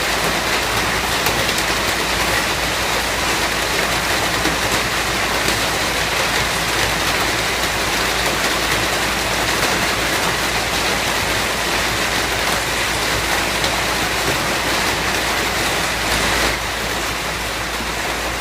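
Steady heavy rain, an even hiss of falling drops. A little past sixteen seconds in it drops slightly in level and changes character.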